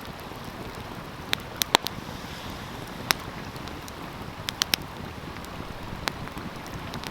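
Wood fire crackling, with several sharp pops scattered irregularly (the loudest a little under two seconds in), over the steady rushing of a stream.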